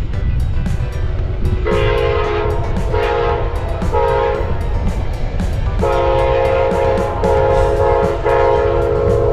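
Amtrak locomotive's air horn sounding a chord in a series of blasts: three short ones, then longer, almost unbroken blasts through the second half, over the steady low rumble of the passing train.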